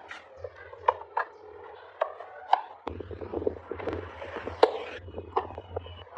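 Handwork on a carved wooden model: scraping with a string of sharp taps and knocks, over a low steady hum.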